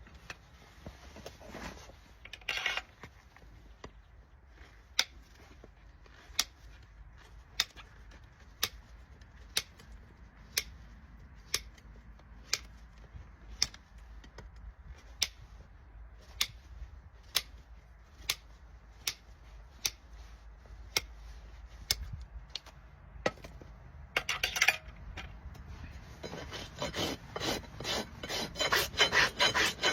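Farrier's rasp filing a Shire horse's hoof in quick back-and-forth strokes, starting in earnest about 26 seconds in after a brief stroke just before. Before that, sharp ticks come about once a second.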